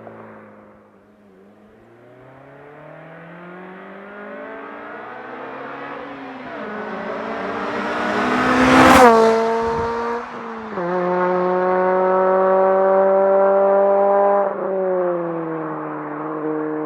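2008 Honda Civic Si's K20Z3 four-cylinder with a muffler delete, revving harder as it approaches and passing loudly about nine seconds in, where the pitch drops. The engine note then holds loud and steady, dipping briefly twice.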